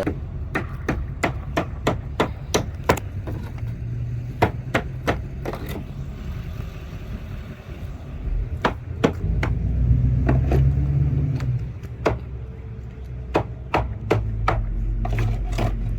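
Irregular sharp knocks and clacks, about one or two a second, over a steady low rumble that swells for a couple of seconds past the middle.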